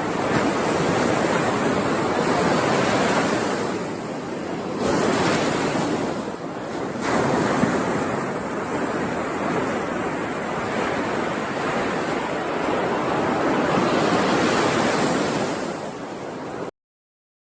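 Ocean waves washing onto the shore in repeated swells that rise and ease every few seconds. The sound cuts off abruptly near the end.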